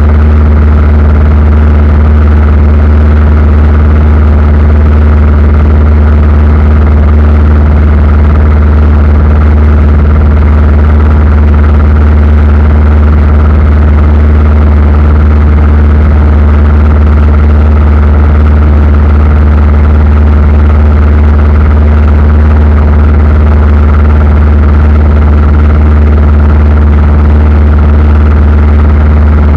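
Aircraft in flight: a loud, steady engine drone, a deep hum that holds the same pitch throughout.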